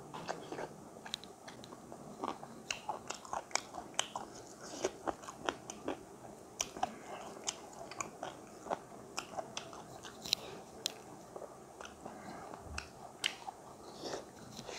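Close-miked eating: wet mouth smacks and clicks of chewing chicken wing and cornmeal dhido eaten by hand, irregular and many in a row.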